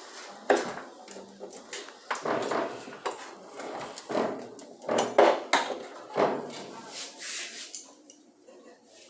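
Irregular metal clinks and knocks of tools and parts being handled during washing-machine repair work, dying away near the end.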